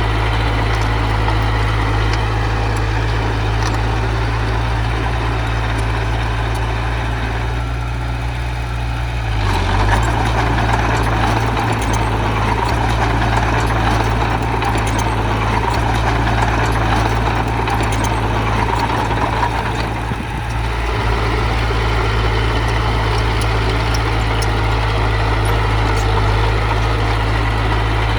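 Diesel engine of heavy earthmoving machinery running steadily with a deep hum; for about ten seconds in the middle it works harder and sounds busier, then settles back.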